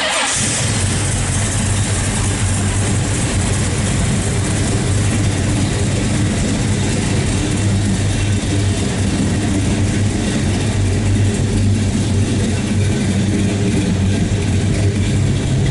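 Chevrolet 454 big-block V8, bored .030 over with Dart Pro1 heads, running steadily at idle in a 1969 Chevelle. The sound cuts in abruptly and stays loud and even, with no revs.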